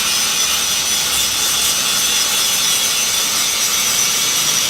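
Steady, loud machine noise, a high hiss with a thin whine in it, unbroken and without rhythm.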